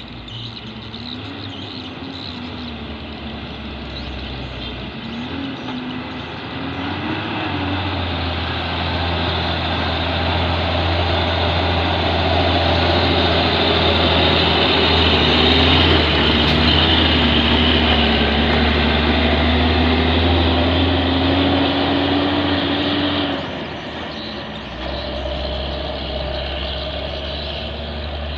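Heavy 8x4 truck's diesel engine working hard under a heavy load. It grows louder from about seven seconds in, holds a strained, rising drone, then eases off suddenly near the end.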